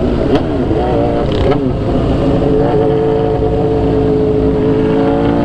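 Motorcycle engine running under way, its revs dipping and climbing twice in the first two seconds and then holding steady, with wind rushing over the microphone.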